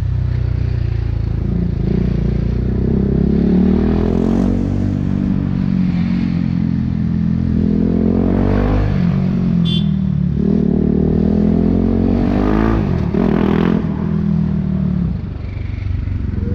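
BMW G 310 R's single-cylinder engine through an Akrapovic racing exhaust, accelerating in traffic: the engine note climbs and drops again about four times.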